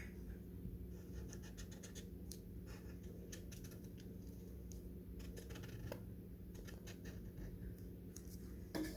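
Marker scratching on paper in many short, faint strokes, over a steady low hum.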